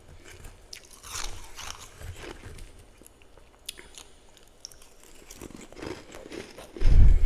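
Freezer frost being bitten and chewed close to the microphone: a run of crisp, irregular crunches, with the loudest bite, a heavy low thump, about seven seconds in.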